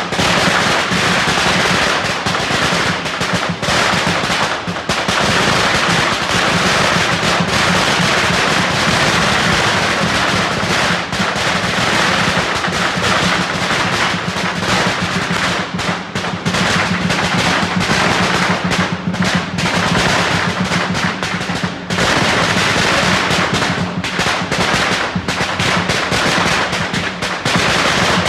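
Strings of firecrackers going off in a dense, rapid, continuous crackle, thinning briefly about 22 seconds in.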